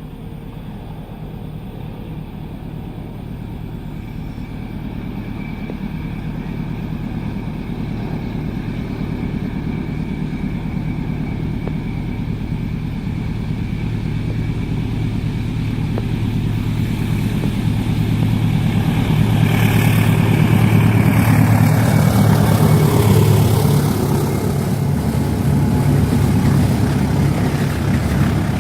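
Diesel locomotive of an approaching train, its engine hum growing steadily louder for about twenty seconds, then passing with a rush of wheel and rail noise as the pitch drops and the carriages run by.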